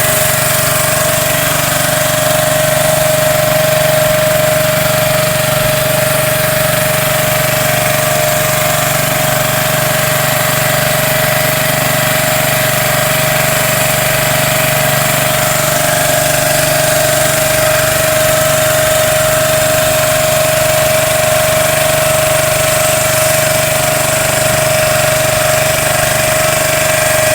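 Small boat engine running steadily at an even speed, with a constant high tone over a low hum.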